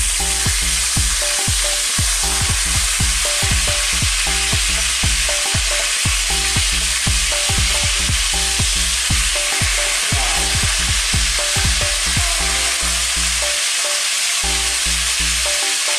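Tuna steaks frying in hot sesame oil in a pan: a steady, loud sizzle while the steaks are turned over to fry the second side. A low, rhythmic pattern of pitched notes, like background music with a steady beat, runs beneath the sizzle.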